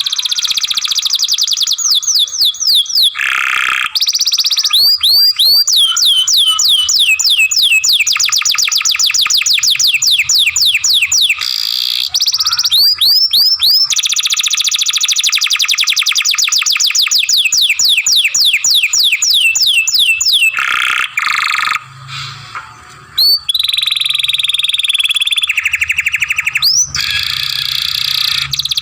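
Young canary singing a long, loud song of rapid trills and rolls, made of repeated trains of fast downward-sweeping whistled notes that change from tour to tour. There are short breaks between phrases and a brief pause about three-quarters through.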